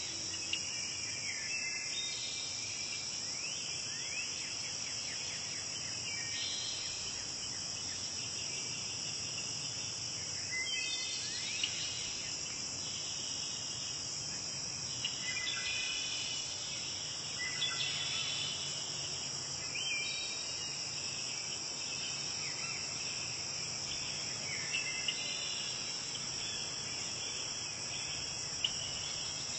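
Crickets and other insects trilling in a steady, high-pitched chorus, with shorter chirping calls coming and going beneath it.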